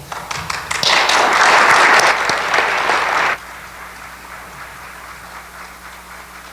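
Audience applauding, loud and dense for about three seconds, then dropping off abruptly to a faint patter.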